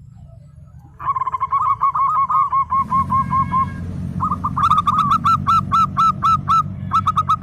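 Zebra dove (perkutut) song: about a second in, a rapid string of short cooing notes begins. After a brief pause comes a louder run of separate notes, about five a second, over a low steady hum.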